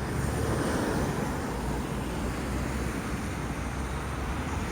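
Road traffic going by, with a vehicle passing close in the first second or so over a steady low rumble.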